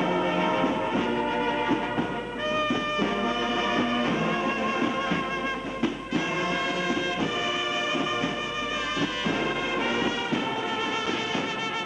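Instrumental band music, led by held, brass-sounding notes that change every second or so.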